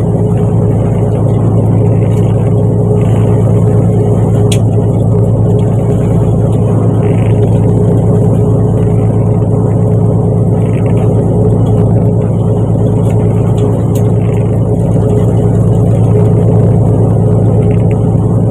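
Fishing boat's engine running steadily at an even pitch, a loud, constant drone heard on board.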